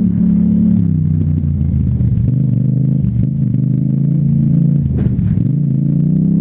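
Yamaha MT-07's 689 cc parallel-twin engine running through an Akrapovic exhaust under way. The engine note drops about a second in as the throttle is eased off, wavers at moderate revs, then rises near the end as it accelerates.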